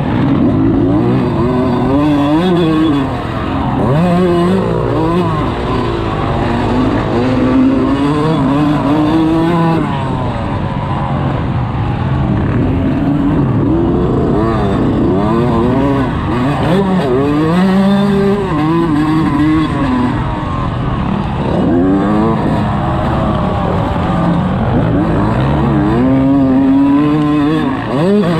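Dirt bike engine being ridden hard around a motocross track, its pitch climbing and dropping again and again as the rider opens and chops the throttle.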